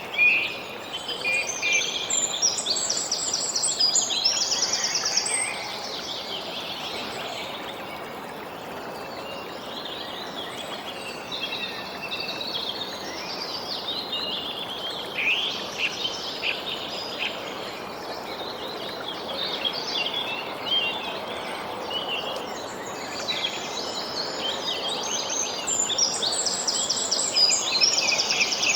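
Several songbirds chirping and singing quick trills over a steady outdoor hiss, with the busiest trilling near the start and again near the end.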